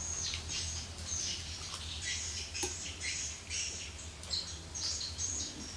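Birds chirping, repeated short high chirps and squeaks, over a low steady hum.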